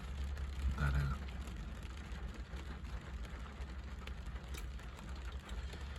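Light rain falling, with scattered drops ticking, over a steady low rumble.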